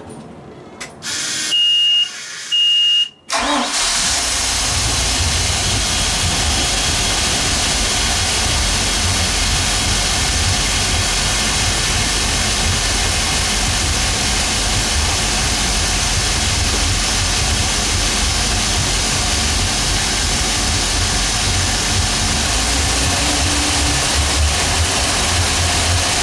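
Two short high beeps, then a 5.7-litre V8 petrol inboard boat engine starts about three seconds in and idles steadily with a low rumble.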